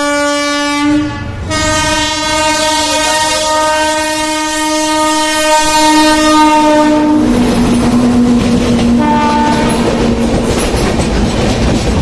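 Indian Railways locomotive horn: a blast that stops about a second in, then a long held blast that drops to a lower pitch about seven seconds in, with a brief higher blast just after nine seconds. The horn gives way to the rumble and clickety-clack of the passing train's coaches.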